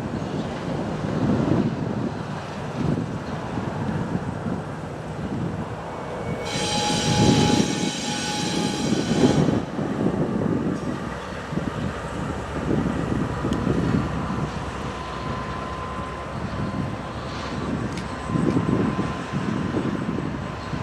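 A freight train rolling past, its cars rumbling and clattering over the rails in uneven swells. A shrill, squealing tone cuts in for about three seconds near the middle, and a faint steady whine sets in about twelve seconds in.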